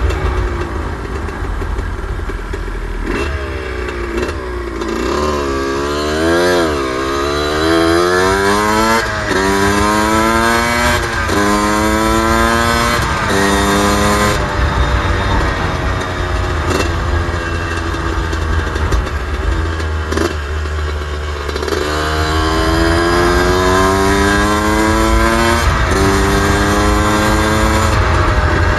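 Suzuki RM125 two-stroke dirt bike engine being ridden hard. Its pitch climbs and drops at each gear change, with four quick upshifts in a row about halfway through and another run up through the revs near the end.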